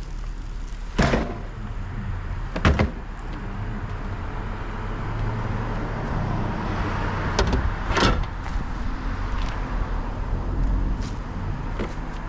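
Several sharp knocks and bangs, about a second in, again near three seconds, and twice around eight seconds, over the steady low hum of a running vehicle.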